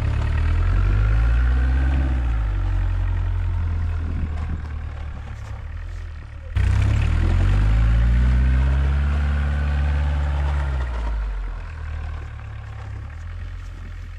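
Homemade 4x4 UTV's diesel engine under load while plowing snow, revving up and easing off twice, with a sudden jump in level about halfway through. It settles to a lower, steadier run near the end.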